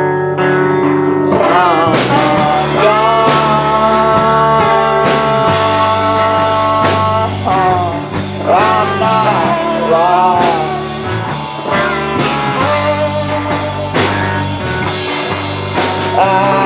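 Live rock band playing a song: guitars, with the drum kit coming in about two seconds in and a long held lead melody that bends and wavers over it.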